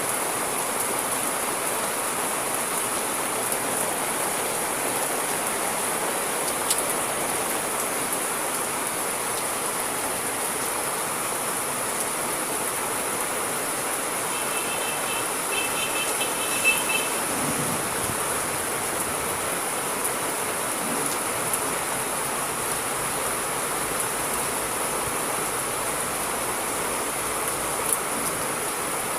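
Steady heavy rain, an even hiss with occasional sharp drop clicks. Midway, a short run of rapid high-pitched chirps sounds for about two seconds.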